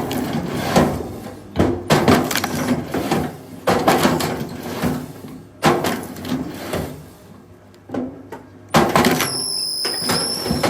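Firewood being split: five sharp cracks of wood giving way, about one every two seconds, each trailing off as the pieces fall apart. A thin high whine sounds in the last second or so.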